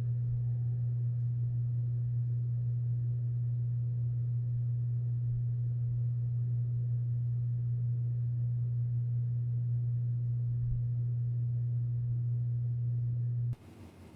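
Inline duct booster fan running with a steady low hum, which cuts off abruptly about a second before the end.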